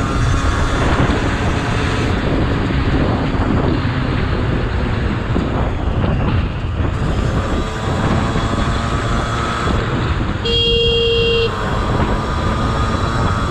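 Riding noise from a motorcycle in traffic: a steady rush of wind and road noise with a faint engine note. About ten seconds in, a vehicle horn sounds once for about a second.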